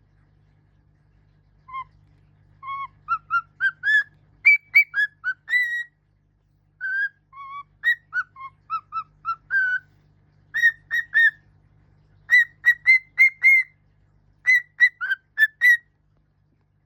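Pet bird whistling a learned tune in phrases of short, clear notes, with a brief pause partway through.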